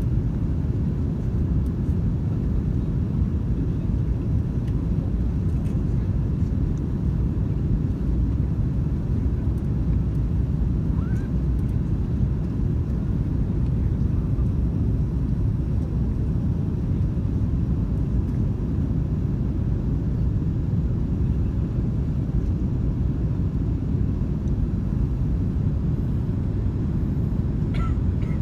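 Airbus A330-200 airliner's engines and airflow making a steady low rumble.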